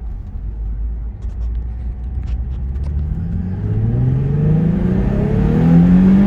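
2008 Nissan 350Z's V6 through its Nismo exhaust, accelerating under way: a low rumble at first, then about three seconds in the engine note climbs steadily in pitch and grows louder as it revs up.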